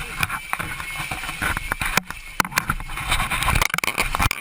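Repeated knocks and clatter over a continuous noisy rush inside a small plane's cabin that is flooding with seawater after ditching, as passengers scramble to get out.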